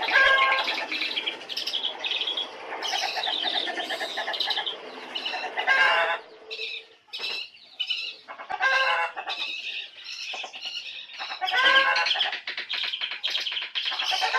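Songbirds singing: a dense run of chirps and warbles, with loud swooping whistled phrases coming back every few seconds.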